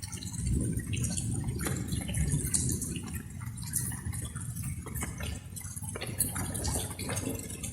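Light rain: water drops dripping and splashing in quick, irregular succession, over a low steady rumble.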